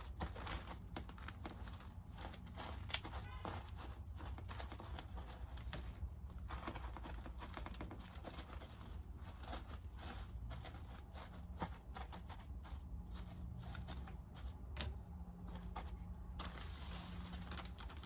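Irregular crinkling and rustling of Easter basket shred being handled and packed into a basket, with a steady low hum underneath.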